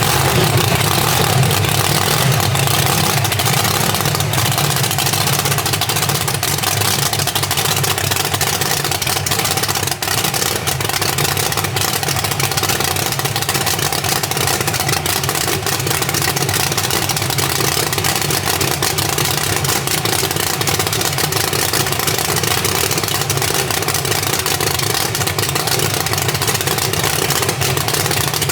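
An engine running steadily and loudly at an even idle, with no revving.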